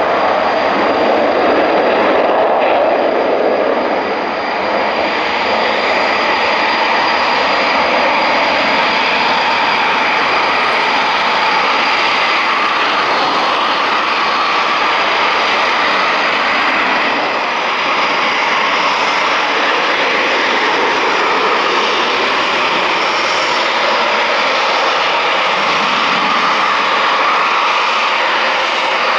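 Eurofighter Typhoon's twin EJ200 jet engines running, a loud steady rush with a thin high whine over it.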